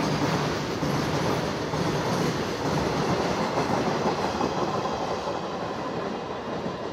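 Goods train's freight wagons rolling past, with a steady rumble and rattle of wheels on the rails that eases slightly near the end.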